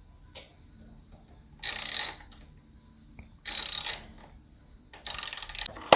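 Ratchet wrench clicking in three short runs as a bolt on a mini bike's engine cover is backed out.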